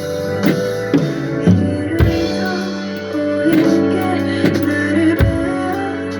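Music: a drum kit with kick and cymbal hits about every half second to second, playing over a strummed guitar and a sustained melodic line.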